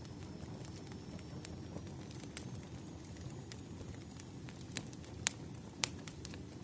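Campfire crackling: a steady low hiss of flames with irregular sharp pops, two louder pops a little after the middle.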